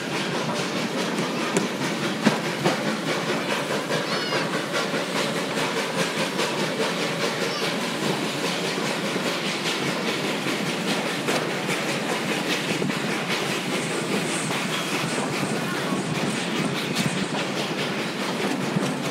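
Narrow-gauge passenger train running along the track: a steady rumble and rattle with many irregular clicks of the wheels over the rail joints.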